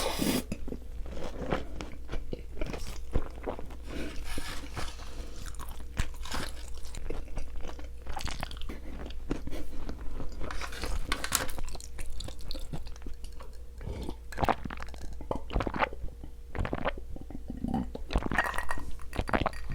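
A person eating close to the microphone: crunching bites and wet chewing in an irregular run of short crackles.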